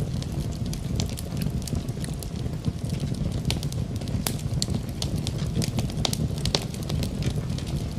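Wood fire crackling, with sharp irregular pops several times a second over a steady low rumble.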